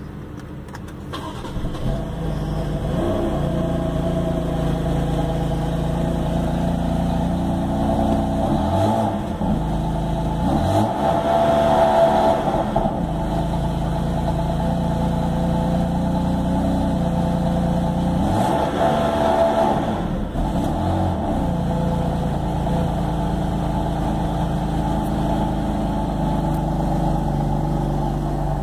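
BMW M4's twin-turbo straight-six starting up about a second in and settling to a steady idle, revved twice, each rev rising and falling back to idle.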